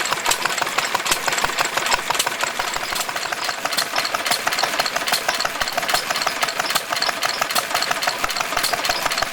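Stationary engine running steadily with a busy mechanical clatter of knocks and clicks.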